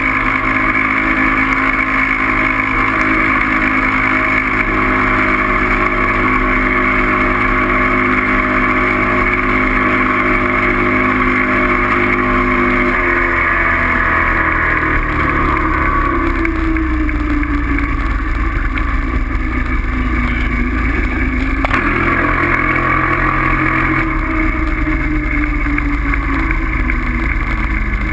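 A vehicle's motor running steadily with a rush of noise over it, its pitch shifting down about halfway through and changing again near the end.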